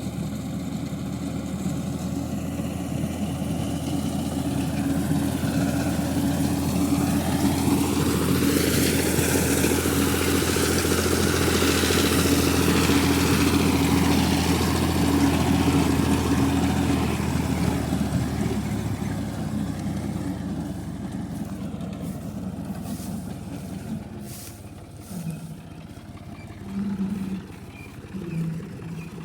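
Tractor engine running steadily under a reaper attachment, growing louder with a noisy rushing layer from about eight seconds in, then fading away after about eighteen seconds.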